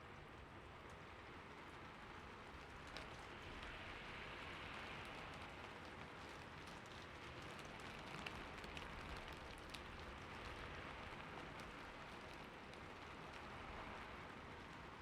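Steady, soft rainfall, with scattered faint drop ticks over an even hiss.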